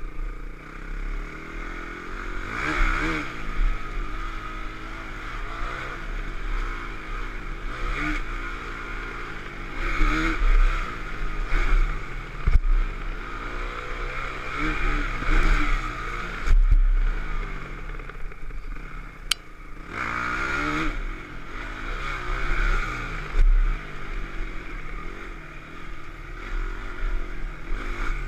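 Dirt bike engine revving up and easing off again and again while riding, with a couple of sharp knocks partway through.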